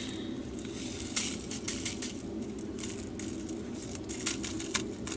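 Diamond-painting drills pouring and rattling into a small plastic storage container, scattered light clicks over a steady low hum.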